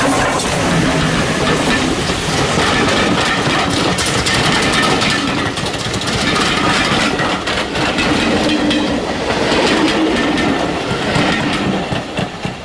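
A train rolling past close by, its wheels clicking over the rail joints, a little quieter near the end.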